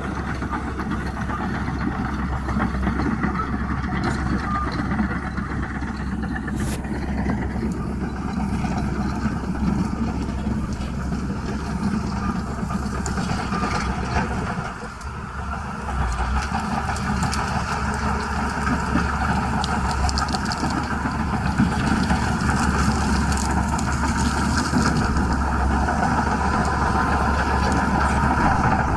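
Bulldozer's diesel engine running steadily under work, with a short drop in level about halfway through before it picks up again.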